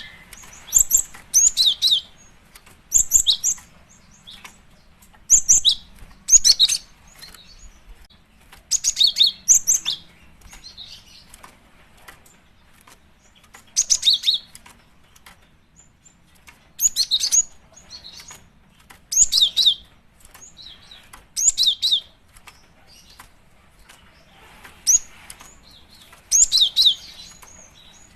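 Cinereous tit (gelatik batu) calling: short clusters of sharp, high chirping notes, repeated every one to four seconds. This is the female's call to attract males, used as a lure recording.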